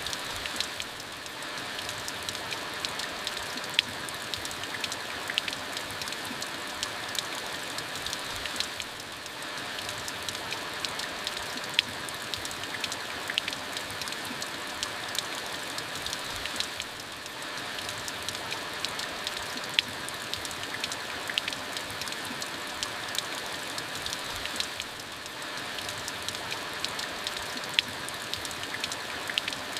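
Steady rain falling on a surface, with many sharp individual drops ticking over the even hiss. The level dips briefly about every eight seconds.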